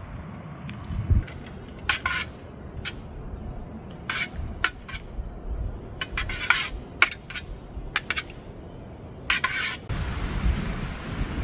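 Metal clinks and scrapes at a small camp stove and its cook pot: four or five short scrapes a couple of seconds apart, with light clicks between them. Wind buffets the microphone near the end.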